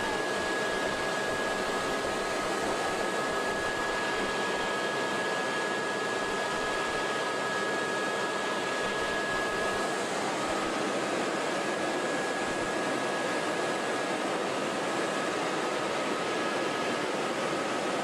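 Helicopter in flight heard from inside the cabin: a steady rushing noise with thin, steady high whine tones over it.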